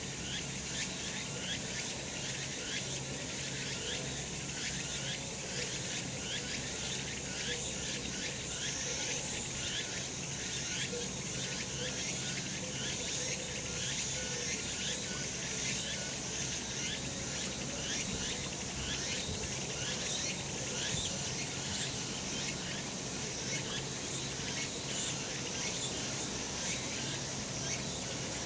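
Cicadas singing in a steady chorus of dense, rapid pulsing buzz that does not let up.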